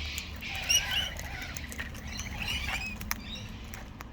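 Birds giving short high chirps and squeaks, a cluster in the first second and another about two and a half seconds in, over scattered small clicks of beaks pecking at seed.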